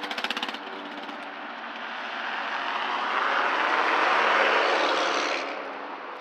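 Dirt bike riding past, its engine swelling to a peak about four seconds in and then fading away. It follows a quick rattle of clicks at the start.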